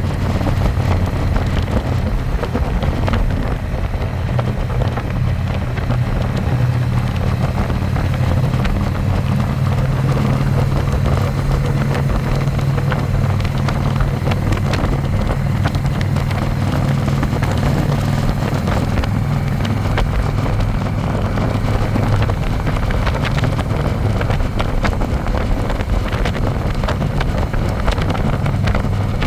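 Harley-Davidson Electra Glide's V-twin engine running at a steady cruise, with wind buffeting the microphone.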